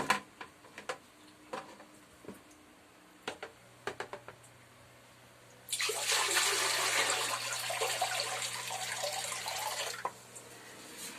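A few scattered small clicks, then about five and a half seconds in a loud rush of water into a toilet bowl that lasts about four seconds and then stops. The toilet line is clogged: when the bowl is flushed, the water backs up into the bathroom floor drain.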